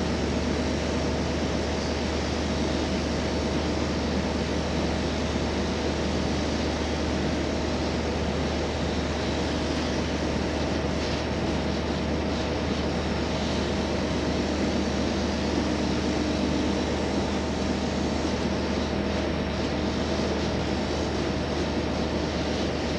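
Cabin running sound of a JR Hokkaido H100 diesel-electric railcar under way: a steady drone from the diesel generator set and traction motors, with a constant whine and rail noise under it. The lower drone changes pitch about two-thirds of the way through.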